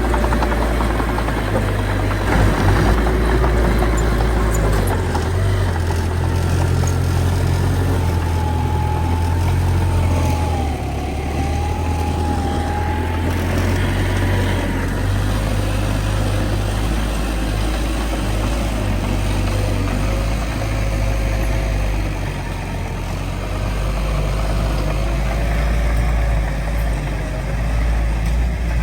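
Heavy diesel earthmoving machinery running steadily with a deep engine drone, over which a high whine wavers up and down in pitch.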